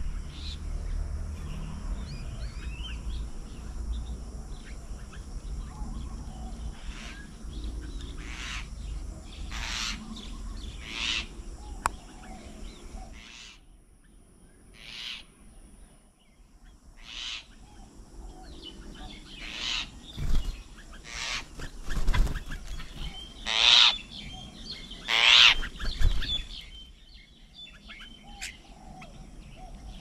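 Birds calling: a string of short, harsh calls scattered through, with the two loudest close together near the end.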